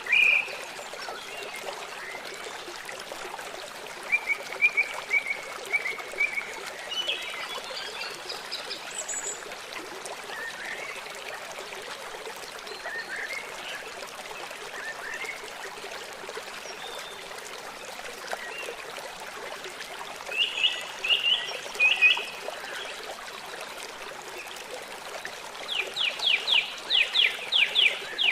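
A stream running steadily, with songbirds chirping over it in short repeated phrases; near the end one bird gives a fast run of about a dozen chirps.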